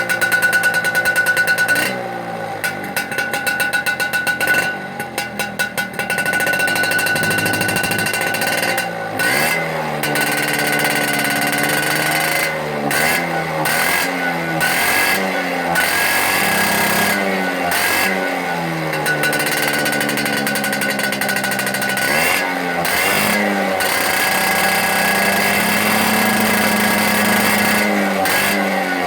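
Vespa scooter engine breathing through a DRC Racing aftermarket exhaust, revved over and over, its pitch rising and falling every couple of seconds. There are quick choppy blips in the first few seconds and a longer held rev near the end.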